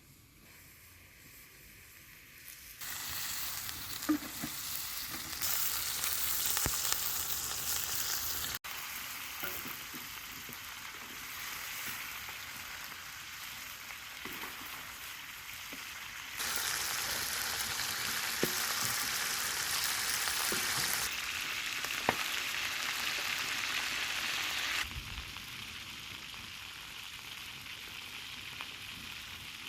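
Food sizzling in a hot pan, a steady hissing fry that jumps louder and quieter in abrupt steps, with a few light clicks.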